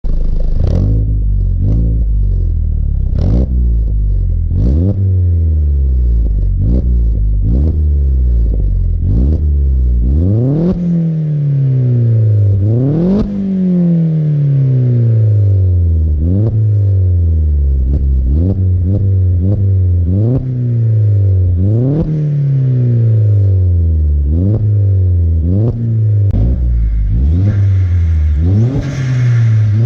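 Vauxhall Astra 2.0 turbo four-cylinder with a full decat exhaust, revved over and over: each time the revs climb quickly and then fall away more slowly. A short sharp puff from the Forge recirculation valve sounds as the throttle closes at the top of each climb.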